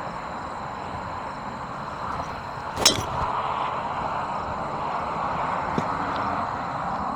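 Steady outdoor noise with one sharp, bright crack about three seconds in and a faint tick near six seconds.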